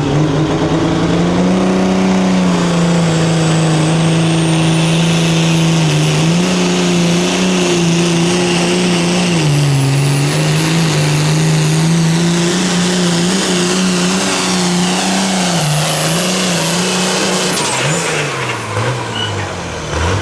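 Competition pulling vehicle's engine at full throttle under heavy load, its revs holding steady with a few brief dips and a high whine that climbs slowly and holds. About 18 seconds in the throttle comes off and the engine winds down.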